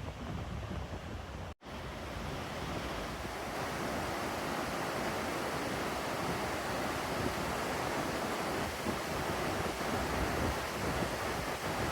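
Steady rush of a waterfall and fast water in a canyon, with wind buffeting the microphone. The sound cuts out for an instant about a second and a half in, then the rush comes back fuller.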